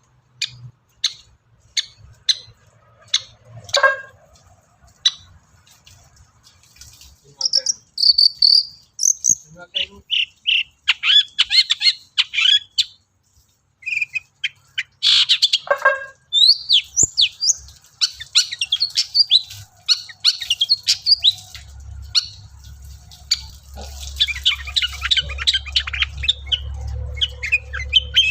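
Long-tailed shrike (cendet) singing: first a string of single sharp chips about two a second, then a fast, varied run of high chirps, trills and mimicked calls. A low steady hum comes in near the end.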